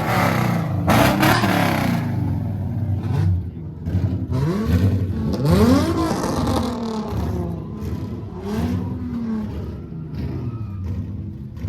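Car engine revving hard, rising in pitch in several quick sweeps around the middle, over the steady drone of running engines.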